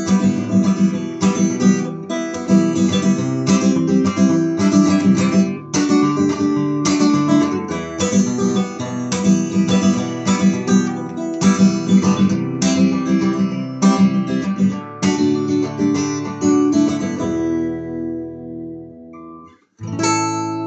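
Acoustic guitar strummed in a steady rhythm through a song's instrumental ending. About seventeen seconds in the strumming stops on a chord left ringing and fading, and a last chord is struck near the end.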